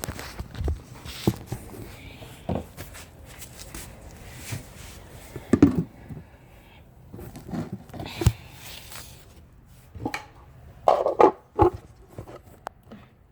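Handling noise: scattered knocks and thumps as things are moved about and set down on a surface, the loudest about five and a half seconds in and a cluster near eleven seconds.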